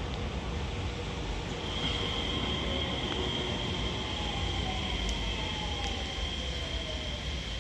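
Train running at a station platform with a steady rumble, a steady high-pitched whine and a lower whine that falls slowly in pitch, as a train does when slowing.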